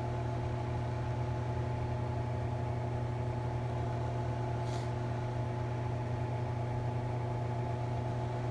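Steady low machine hum, even and unchanging, with one faint short tick about halfway through.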